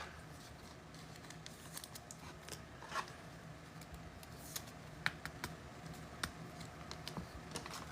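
Trading cards being handled and flipped through: faint scattered clicks, taps and slides of card stock, over a low steady hum.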